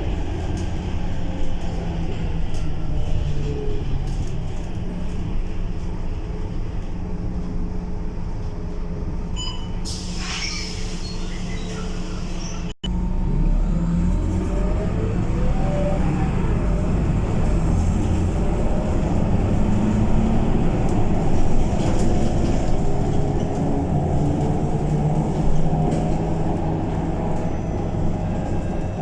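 Scania K230UB city bus's diesel engine running as the bus drives, with a short hiss of air about ten seconds in. After a momentary dropout the engine is louder and its pitch rises as the bus pulls away and accelerates.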